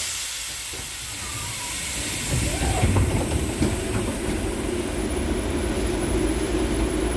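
An LVS-86K tram standing at a stop: a hiss of released air that fades out over about five seconds, then a steady mechanical hum and rumble from the tram's equipment that sets in about two seconds in.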